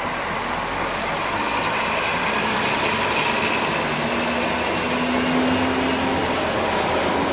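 Truck driving: a steady rush of engine and road noise, with the engine note rising slightly in the second half.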